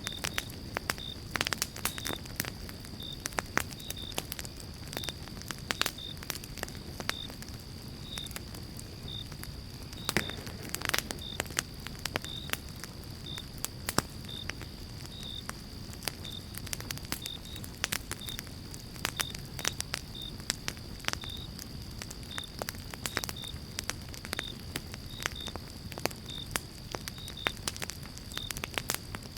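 Campfire of pine logs crackling and popping: many sharp pops of varying loudness over a low, steady rush of flame. A faint high chirp repeats about twice a second behind it.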